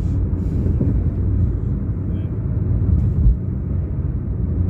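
Steady low rumble of a car on the move, road and engine noise heard from inside the cabin, with one brief thump about three seconds in.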